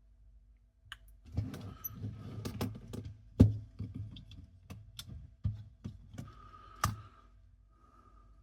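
Hands handling small parts and tools on a workbench: a run of light clicks and clatter with some rustling, the sharpest click about three and a half seconds in, dying away near the end.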